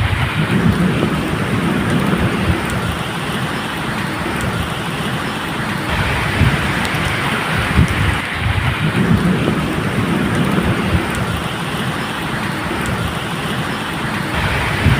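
Steady medium rain hissing, with low rolling thunder that swells and fades twice.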